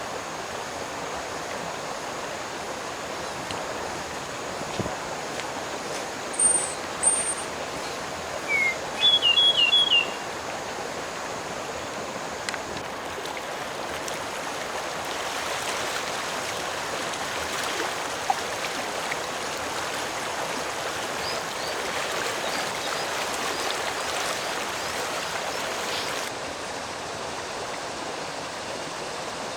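Steady rush of a flowing stream. A small bird calls over it: two short high notes about six seconds in, then a quick run of four chirps around nine seconds, with a few faint notes later.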